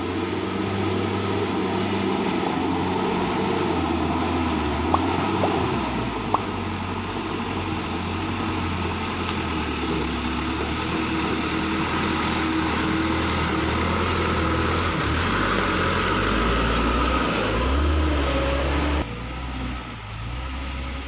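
Truck engine running with a steady low drone, two short clicks about five and six seconds in, and the sound dropping off abruptly near the end.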